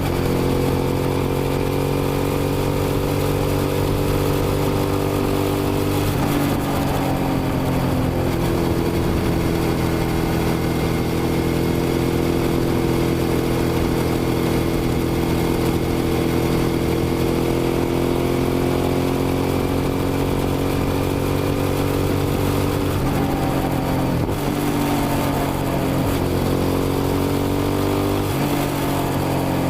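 Suzuki SV650's V-twin engine running under way at a steady speed, its pitch shifting around six seconds in and again twice near the end.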